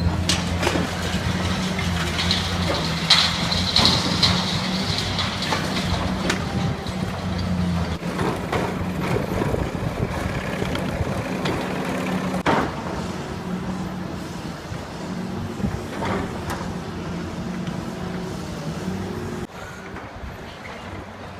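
Demolition machinery's diesel engine running steadily while the building is torn down, with scattered cracks and crashes of falling debris; the sharpest impact comes about twelve seconds in.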